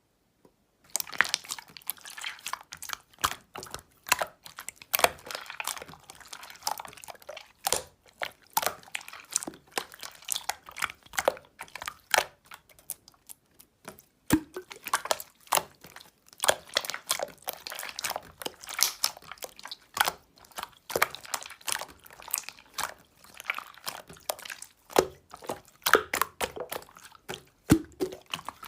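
Slime being squished and worked by hand, a dense run of sticky clicks, pops and crackles.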